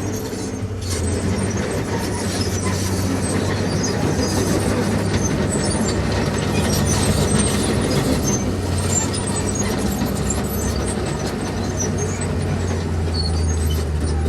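Diesel engine of a Komatsu D51PX bulldozer running steadily under load, with a low, constant hum, while pushing stone, with scattered clicks and rattles of stone and steel throughout.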